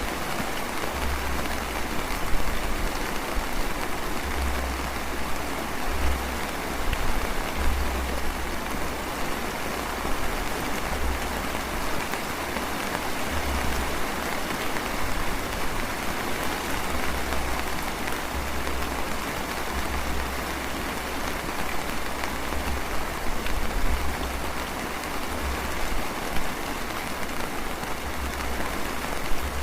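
Light drizzling rain falling steadily, an even hiss of drops on surfaces, with a low rumble that comes and goes underneath.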